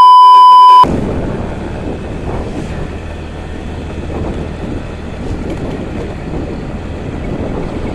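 A loud steady electronic beep stops abruptly under a second in. After it, a motorcycle is heard being ridden, a low engine hum under heavy wind noise on the microphone.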